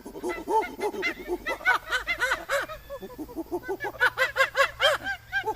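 A rapid run of short animal calls, several a second, each rising and falling in pitch.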